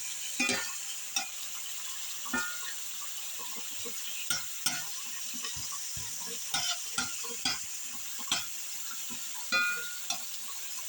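Shrimp and onion sizzling in an iron skillet with a steady hiss, while a utensil stirs the food and knocks and scrapes against the pan about once a second.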